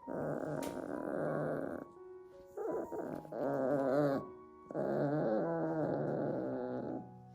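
A puppy making throaty vocal sounds in three bursts of about two seconds each, over background music with steady held notes.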